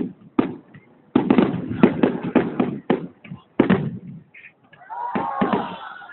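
Fireworks going off: a rapid, irregular series of sharp bangs, several a second at their densest, each with a short echoing tail.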